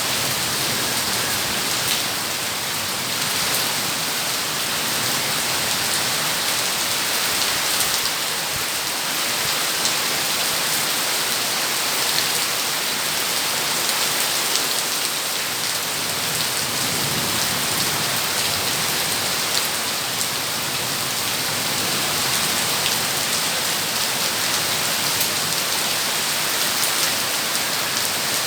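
Heavy rain falling steadily, drops pattering on a surface in a dense, even hiss.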